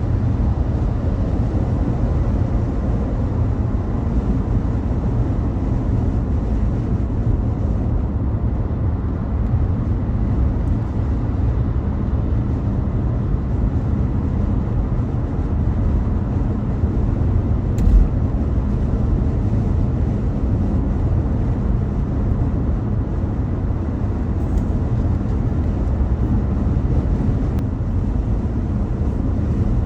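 Steady road noise of a car driving on a highway: a low drone of tyres and engine. A single short knock, like a bump, comes once a little past the middle.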